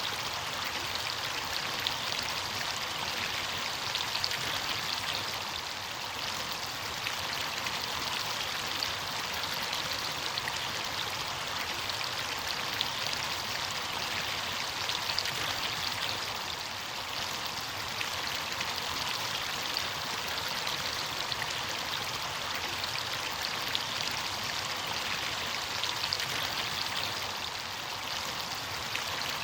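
Running stream water splashing and gurgling steadily over rocks, a continuous rushing sound with small irregular splashes.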